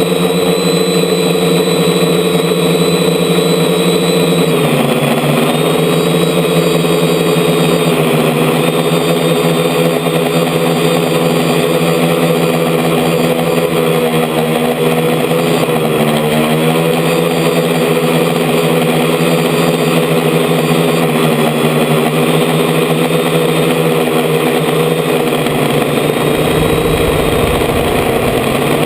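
DJI F450 quadcopter's four electric motors and propellers buzzing steadily, heard from a camera mounted on the frame. The pitch dips and wavers briefly a few times as the throttle changes, and a low rumble comes in near the end.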